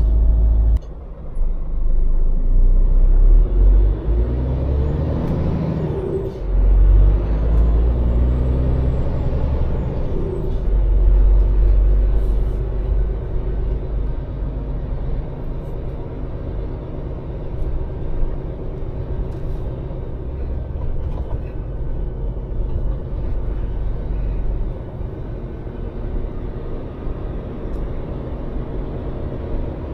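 Scania lorry's diesel engine and road noise heard from inside the cab: a low rumble that swells several times in the first dozen seconds, then settles to a steadier, quieter run.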